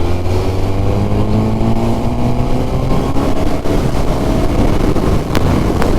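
Suzuki Katana's 999 cc inline-four engine, the K5 GSX-R1000 unit, pulling under acceleration with its pitch rising steadily. It then holds on at speed, with two sharp ticks near the end.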